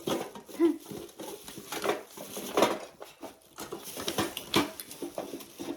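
Small objects being handled and rummaged through: irregular light taps, clicks and rustling, with an occasional small clink.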